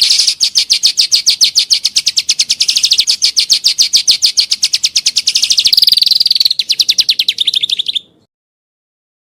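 A songbird singing a fast, rapid-fire trill of sharp high notes, about ten a second, kept up for some eight seconds with a brief drop in pitch around six seconds in, then cut off abruptly.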